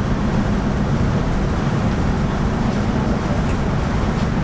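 Steady drone of a Scania K360i coach travelling on the road, heard from inside the cabin: a low engine hum mixed with tyre and road noise.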